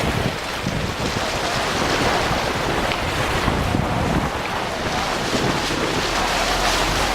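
Wind rushing over the microphone, a steady noisy buffeting with an uneven low rumble.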